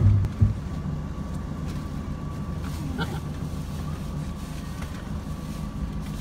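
Vehicle engine idling with a steady low hum, with two thumps about half a second apart at the start.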